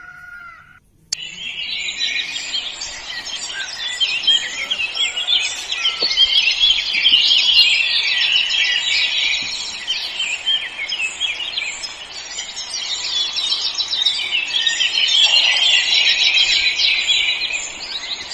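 Many birds chirping together in a dense chorus of short overlapping calls, starting about a second in.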